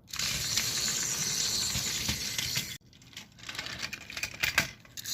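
Battery-powered Tomy Plarail toy locomotive's small electric motor and plastic gearbox whirring steadily, then cut off suddenly a little over halfway through. Plastic clicks and rattles follow as the toy is handled, and the whirring starts again at the very end.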